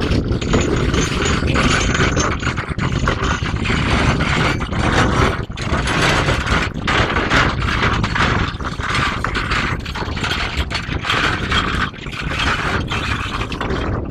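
A slow-moving work train with flatbed wagons: continuous metallic clanking and rattling, with many irregular sharp knocks.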